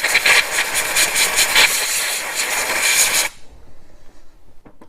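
Compressed air blasting from an air-hose blow gun for about three seconds, then cutting off suddenly.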